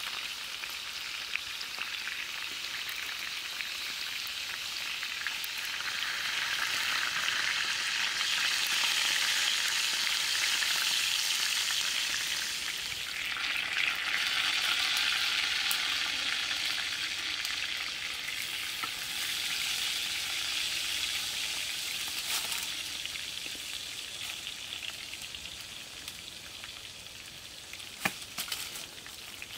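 Pork-stuffed green pepper halves frying in oil in a pan over a wood fire: a steady sizzle that swells in the middle and dies down toward the end, with a few sharp clicks near the end.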